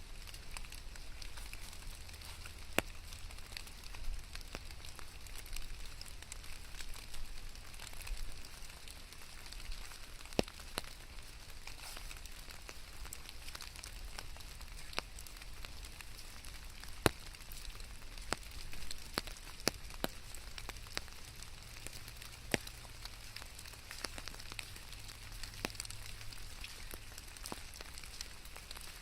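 Steady rain hissing, with scattered sharp drops ticking irregularly onto a hard surface.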